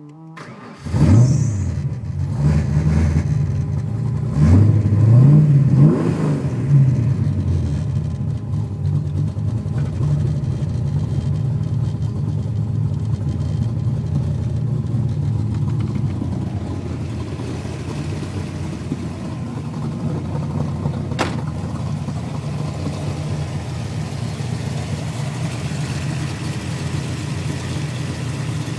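Ford 5.0 roller-block V8, bored .030 over, with a Trick Flow stage 2 cam and an Offenhauser dual-four tunnel ram on twin Edelbrock 600 carburetors, catching about a second in and being revved several times. It then settles into a steady idle from about eight seconds in.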